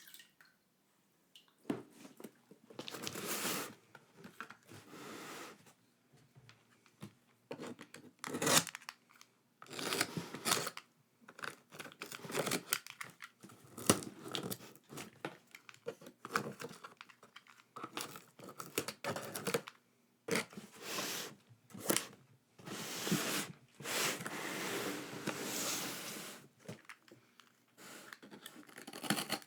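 Packaging being torn open and crinkled by hand in irregular bursts, with a few sharp snaps.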